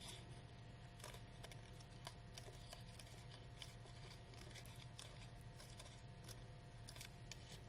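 Scissors making faint, irregular snips into the edge of a crepe paper petal, about one or two a second.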